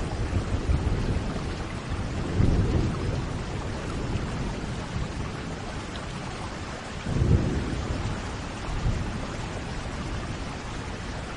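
Steady rain with low rolling thunder, swelling twice, about two and a half and seven seconds in.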